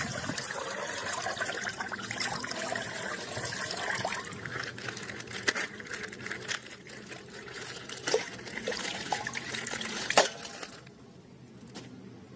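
Wet liquid sounds, trickling and splashing as something is handled in liquid, with many small clicks, stopping about eleven seconds in.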